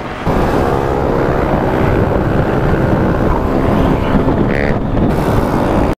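Motorcycle engine running under way, with wind noise. It gets louder about a third of a second in and cuts off suddenly at the very end.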